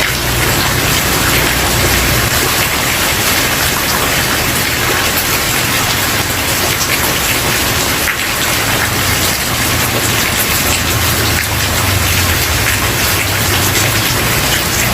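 Steady rain falling on a wooden porch, a dense even hiss with individual drops pattering through it. A low rumble sits underneath, swelling a little near the start and again later on.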